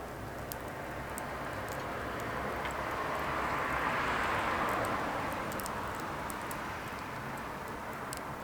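Firewood burning, with sharp crackles and pops over a steady hiss. A broad whooshing swell of noise rises and fades in the middle.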